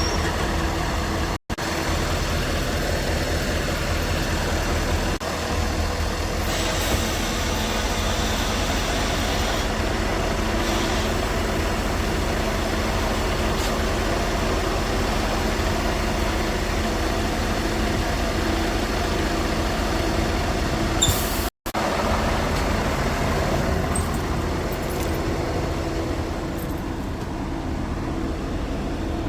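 Scania R580's 16-litre V8 diesel engine running steadily at a constant speed, with a hiss for a few seconds about seven seconds in. The sound cuts out abruptly twice.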